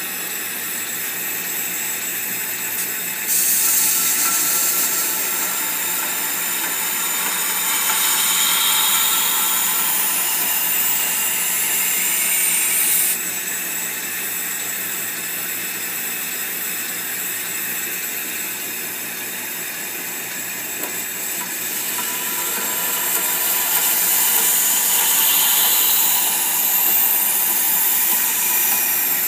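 Powered knife grinder running steadily while a knife blade is ground on it, with two long stretches of louder, high-pitched grinding hiss as the blade is pressed to the abrasive, the first from about three seconds in and ending suddenly near the middle, the second building up near the end.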